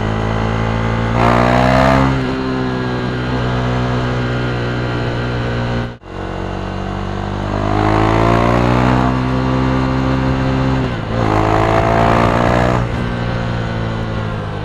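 KTM Duke 390's 373cc single-cylinder engine running loud through an Akrapovic exhaust, revving up three times: about a second in, again past the middle, and once more after a quick dip in pitch near the end. The sound cuts out abruptly for a moment about halfway.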